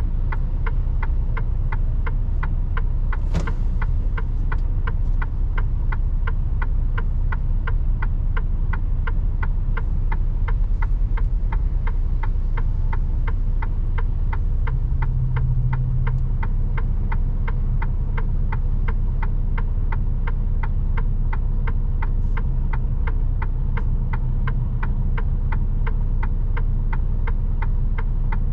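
Mercedes Actros truck heard from inside the cab: the diesel engine runs with a steady low rumble while the turn-signal indicator ticks evenly, several ticks a second. There is one sharper click about three seconds in.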